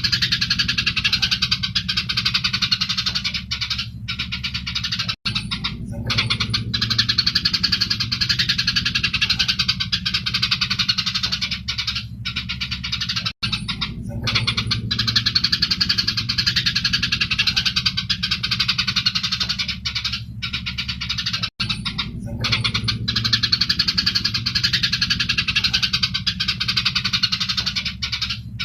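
Eurasian tree sparrows chattering in a fast, continuous stream of chirps, their agitated fighting call, over a steady low hum. The same stretch of about eight seconds repeats, with a sharp cut at each join.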